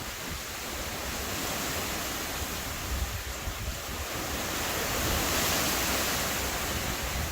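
Strong, gusty hurricane wind rushing and buffeting the microphone in the wake of Hurricane Ian. It swells louder about five seconds in.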